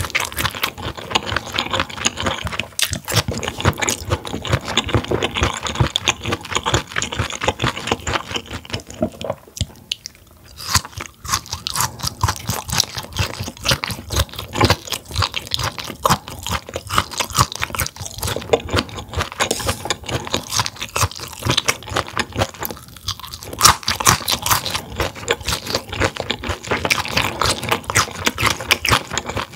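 Close-miked chewing and crunching of a mouthful of stir-fried mullet gizzards and vegetables: a fast, dense run of crisp wet crunches, with a short quieter lull about ten seconds in.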